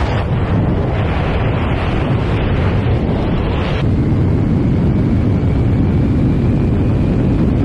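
Loud rushing wind and low rumble buffeting a microphone, typical of air blast on an aircraft or skydiving camera. The hiss thins about four seconds in, leaving the rumble and a faint steady whine.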